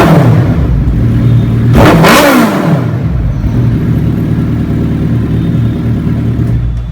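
2018 Suzuki Hayabusa's inline-four engine running through a Racefit titanium slip-on exhaust. It is coming down from a rev at the start, gives one sharp throttle blip about two seconds in that rises and falls, then settles to a steady idle.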